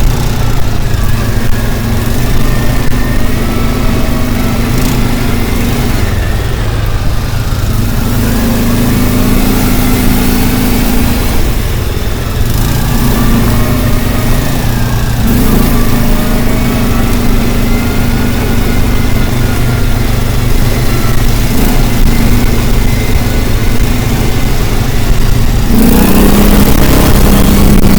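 Motor vehicle engine running over a heavy low rumble, its pitch easing up and down every few seconds as if travelling on a road.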